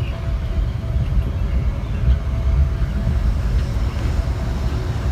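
Budd/GE M2 electric multiple-unit train car rolling on the rails: a steady low rumble of wheels and running gear with a faint steady hum above it.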